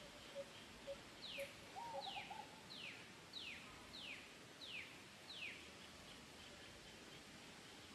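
Faint bird calls: a series of low, evenly spaced notes about twice a second that stops about two seconds in, then a run of seven high whistled notes, each falling in pitch, about two-thirds of a second apart.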